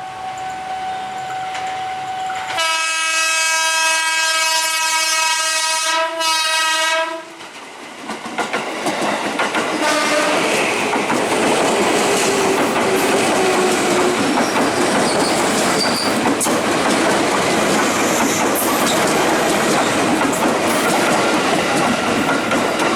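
Electric commuter train (KRL) sounding one long horn blast of about five seconds, with a brief break near the end, then running past with a steady rumble and clatter of wheels on the rails.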